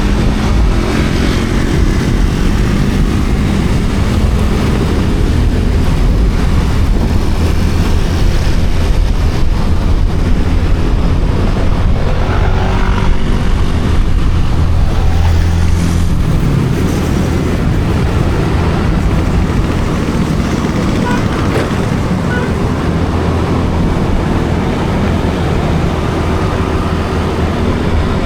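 Motorcycle engine running steadily while riding, with heavy wind rush on the microphone.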